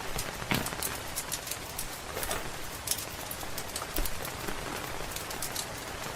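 Steady rain hiss mixed with the frequent sharp crackles and pops of a wood fire, with a louder pop about half a second in.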